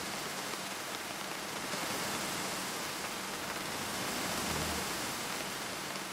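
A steady, even hiss like rain or white noise, with faint low tones underneath.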